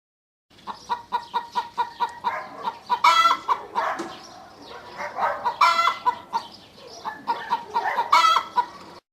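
Hen clucking loudly: runs of short clucks, about four a second, each building into a louder drawn-out squawk, three times over, the cackle of a laying hen.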